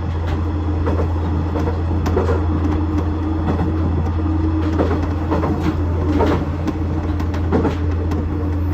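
KiHa 110 series diesel railcar running along the line, heard from on board: a steady low engine drone with a held hum, broken by irregular clacks and rattles from the wheels on the rails and the car body.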